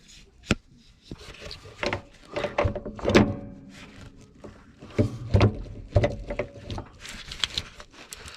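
A series of irregular clunks and knocks, as of parts being handled and moved. There is a short sharp knock about half a second in, and the loudest clunk comes about three seconds in.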